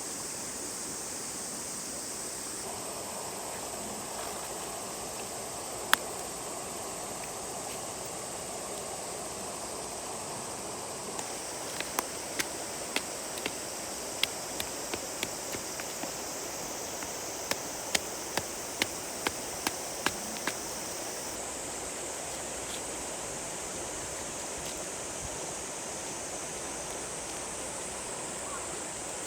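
River water running steadily. One sharp click or knock comes about six seconds in, and a quick run of them, about two a second, follows roughly halfway through.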